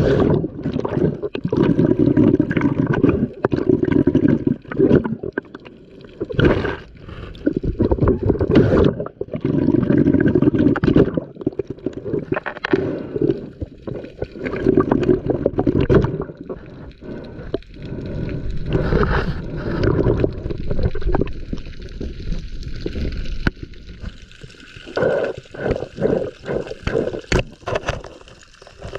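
Underwater gurgling and rushing of a scuba diver's exhaled regulator bubbles, coming in irregular surges a few seconds long, with a quick run of short bubbly bursts near the end.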